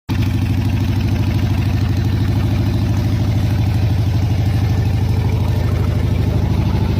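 1981 Harley-Davidson Ironhead Sportster's 1000cc V-twin running steadily at idle, with an even pulsing exhaust beat. It cuts in abruptly just after the start.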